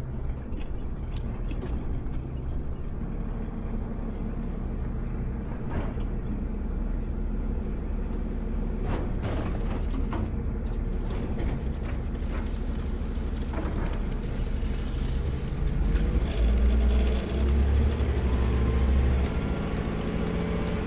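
Diesel engine of an automated side-loader garbage truck running, heard from the driver's cab, with a few knocks and rattles around the middle. The engine note gets louder and deeper about three-quarters of the way through.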